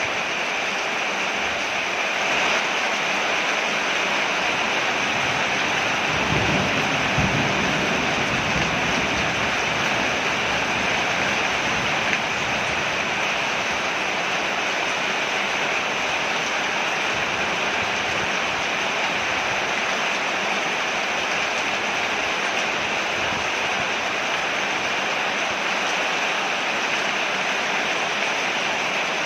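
Steady heavy rain falling on a porch, with a brief low rumble about six seconds in.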